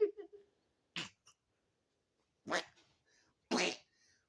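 Pet dog making short, breathy huffs through its nose and mouth, three of them about a second apart, as it 'talks' back to its owner.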